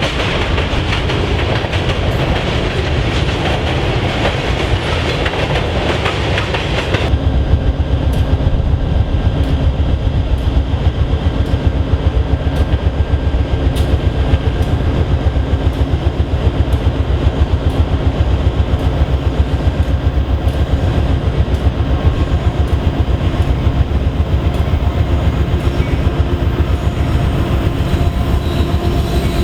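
Train running past on the track, with the clickety-clack of wheels over the rails. About seven seconds in, the sound changes suddenly to a deeper, rhythmic rumble with faint steady tones above it.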